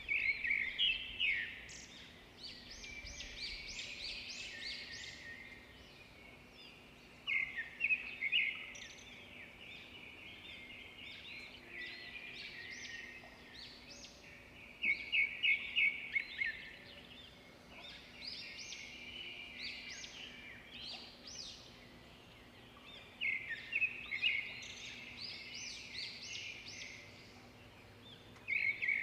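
Birds chirping in repeated bursts of rapid, high twittering notes every several seconds, over a faint steady hum.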